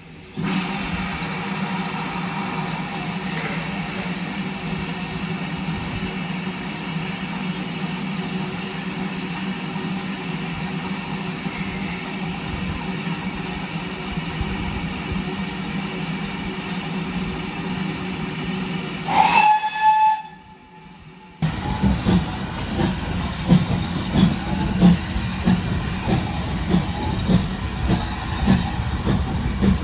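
Steady steam hiss and hum from GWR 5600-class 0-6-2T tank locomotive 5619, broken about two-thirds of the way in by a short blast on its steam whistle. After a brief gap, the train is heard on the move with irregular knocks and clatter from the wheels on the rails.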